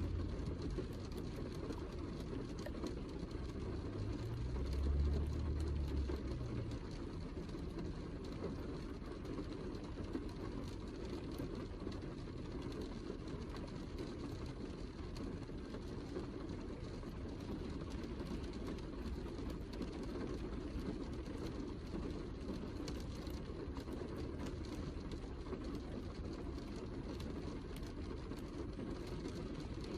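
Heavy rain falling steadily, a dense low hiss with small drop ticks through it. A brief low rumble swells about four to six seconds in.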